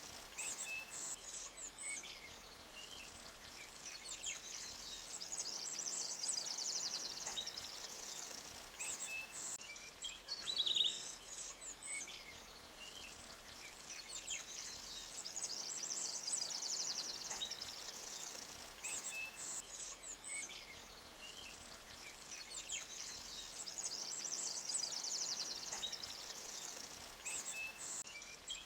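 Forest ambience: small birds chirping and twittering in high, fast trills over a faint steady wash of noise, with one louder call about eleven seconds in. The same phrases come round again about every eighteen seconds, as in a looped recording.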